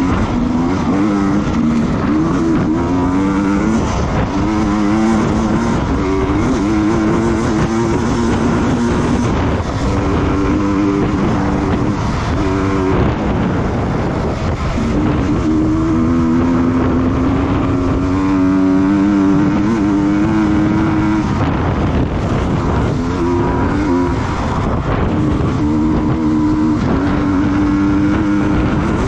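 Racing motorcycle engine under hard use through a lap. Its pitch climbs, breaks at each gear change and falls away for corners, again and again, over heavy rushing noise.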